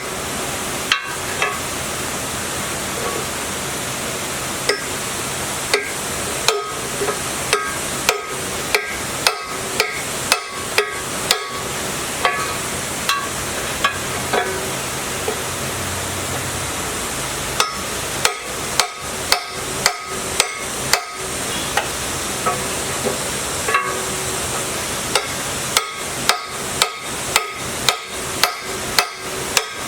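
Repeated sharp knocks with a short metallic ring, in runs of about two blows a second broken by pauses, over a steady hiss.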